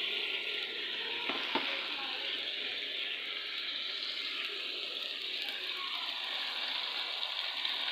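Potato cubes and chicken sizzling in hot ghee: a steady frying hiss, with one short knock about a second and a half in.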